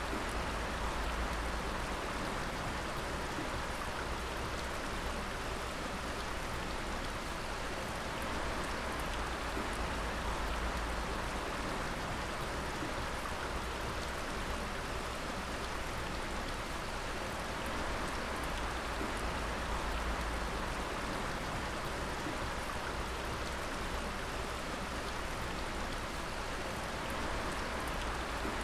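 Water dripping steadily: a continuous patter of many drops over an even rushing hiss, with faint ticks of single drops.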